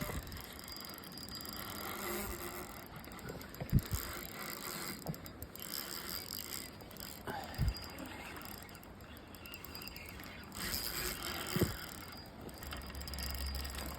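Fishing reel ticking and whirring as it is cranked while a hooked steelhead is played in, with a few soft knocks of handling on the microphone.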